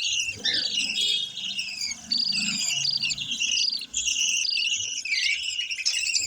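Lovebirds chattering: a continuous stream of rapid, high chirps and short falling calls.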